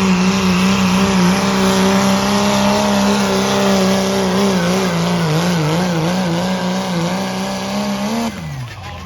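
Pulling vehicle's engine held at high revs under full load as it drags the weight sled, the pitch steady with a slight waver. Near the end the pitch falls away sharply and the sound drops: the throttle is let off at the end of the pull.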